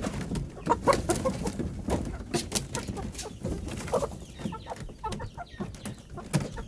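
Domestic chickens clucking with short, scattered calls, mixed with frequent sharp clicks and scratching sounds throughout.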